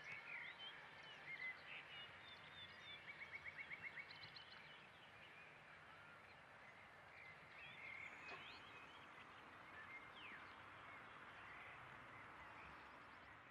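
Faint outdoor ambience of birds chirping: scattered short chirps and whistles over a steady hiss, with a quick run of about ten rapid chirps around three to four seconds in.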